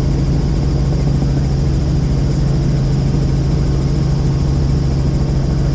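Helicopter in flight heard from inside the cabin: a loud, steady drone with a strong low hum and a fainter high whine, unchanging throughout.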